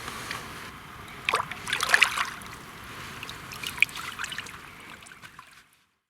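Water splashing and trickling at the lake's edge, with a cluster of louder splashes between one and two seconds in and another around four seconds; the sound cuts off near the end.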